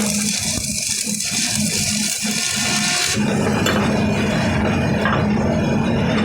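Electric arc welding, a steady crackling hiss over a low hum, which stops about three seconds in, leaving the hum.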